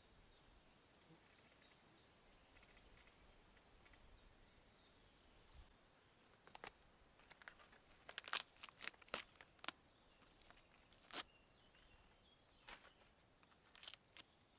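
Quiet outdoor background with a few faint bird chirps. From about six seconds in come a run of short, sharp clicks and crinkles from hands handling the steak and its seasoning, thickest a little past the middle.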